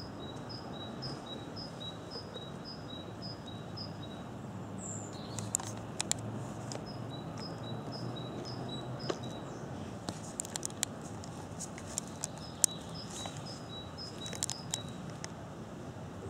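Garden birdsong: a small bird repeating a high two-note call about twice a second, in several runs, over a low steady hum. From about five seconds in, scattered sharp clicks and snaps.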